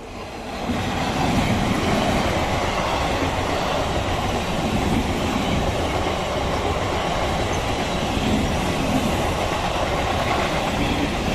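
EMU local train passing close at speed: the noise of its wheels and cars on the track rises sharply about a second in and then holds loud and steady.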